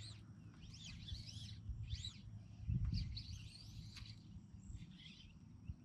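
A songbird singing a string of short, arching high chirps, over a low steady rumble that swells briefly near the middle.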